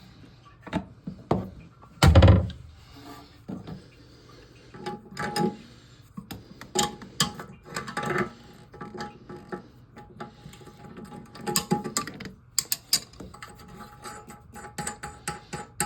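Irregular knocks, clicks and scrapes of hands, tools and parts working on a toilet tank as the old brass fill valve and its metal nut are taken out. The loudest is a single thump about two seconds in.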